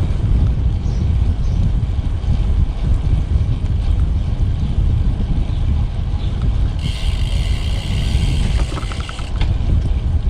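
Wind buffeting the microphone of a camera riding along on a road bike, a steady low rumble. About seven seconds in, a hiss joins for a couple of seconds, then cuts off.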